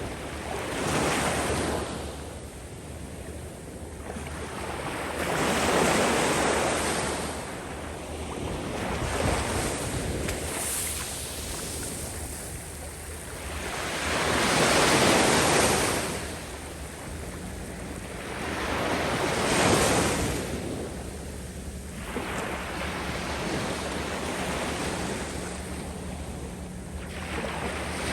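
Surf washing up a sandy beach, swelling and falling about every four to five seconds as each wave breaks and runs up the sand.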